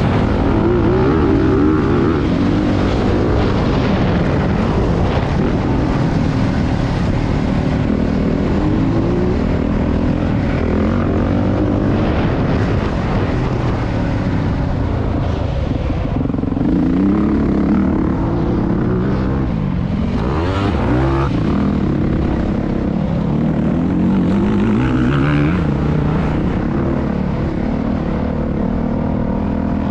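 Motocross dirt bike engine revving hard, its pitch climbing and dropping again and again as the throttle is worked on the track.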